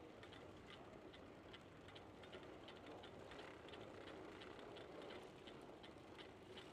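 Faint, steady ticking of a bicycle freewheel while coasting, about four to five clicks a second, over soft tyre and wind noise.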